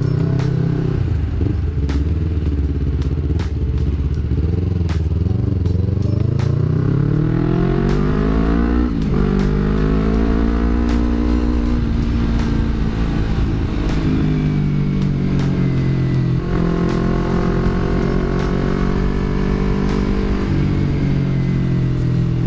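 Yamaha R25's 250 cc parallel-twin engine through a Villan MV1 aftermarket exhaust while riding: the revs climb for a few seconds, drop sharply with an upshift, hold steady, then drop again with a second upshift.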